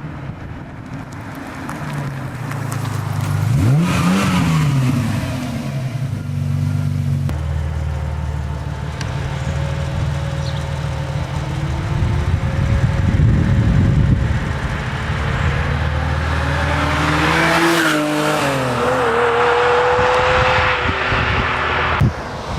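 Ferrari Testarossa's flat-twelve engine through a Muffler Tech aftermarket exhaust, running and revving. It grows louder over the first few seconds, swings up and down in pitch about four seconds in, runs steadily, and swings in pitch again about eighteen seconds in.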